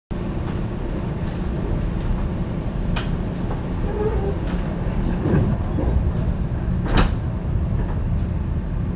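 Steady low rumble of a moving Metra commuter train heard from inside the passenger car, with two sharp clanks, one about three seconds in and another about seven seconds in.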